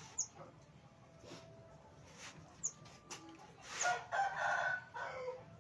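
A rooster crowing once, a drawn-out call of about a second and a half, past the middle. Short, high chirps from small birds are scattered around it.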